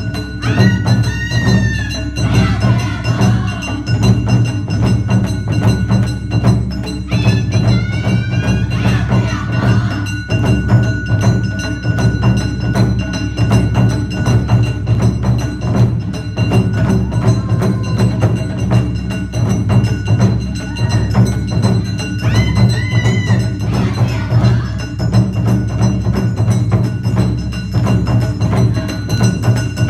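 Awa Odori festival music: a fast, dense beat of drums and clacking wooden percussion under a ringing bell-gong. High wavering melodic phrases come in three times.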